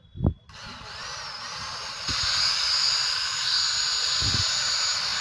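Electric cutter machine's motor switched on: a short thump, then a high-pitched whine that rises in pitch as it spins up over the first two seconds and then runs steadily at full speed.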